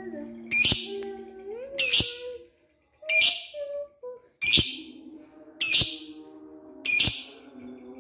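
Lovebird giving a short, shrill, harsh call six times, about once every 1.3 seconds, over fainter lower-pitched tones.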